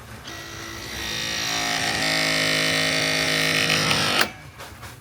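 A handheld power tool's electric motor runs for about four seconds with a steady whine, growing louder over the first two seconds, then stops abruptly with a sharp click.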